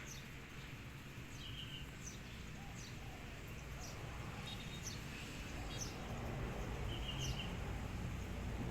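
Small birds chirping: short, high calls every second or so, over a steady low outdoor rumble that grows a little louder near the end.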